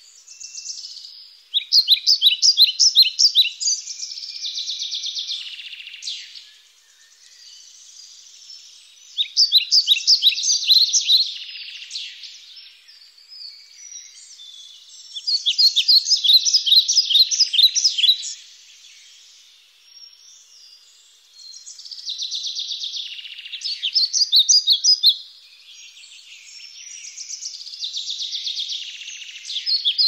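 Songbirds singing: a rapid, high, trilled phrase of quick repeated notes lasting two to three seconds comes back about every six seconds, over softer continuous chirping.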